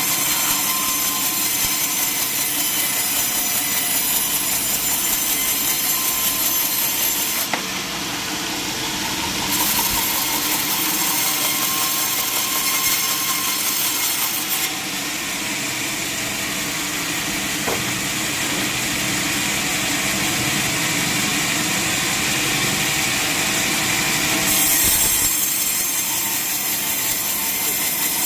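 Sawmill saw cutting through a log, a steady, dense sawing noise that changes abruptly several times.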